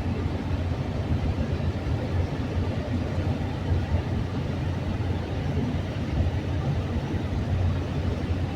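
Steady low rumble of a moving vehicle, strongest in the bass, with no clear rhythm or tone.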